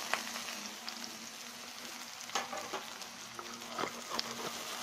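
Spice-and-gram-flour-coated okra sizzling in shallow oil in a frying pan over a low flame, a steady gentle hiss. Several sharp clicks and scrapes through it as the okra is stirred in the pan.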